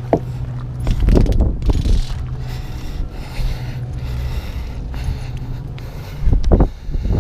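Wind rumbling on a chest-mounted microphone, with mechanical clicks and knocks from a fishing reel being worked and handled: a few near the start, a cluster between one and two seconds in, and another near the end.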